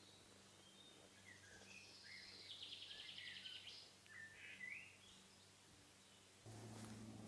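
Faint songbird singing: scattered chirps and short sweeping notes, with a fast trill about two and a half seconds in. Near the end a low steady hum sets in.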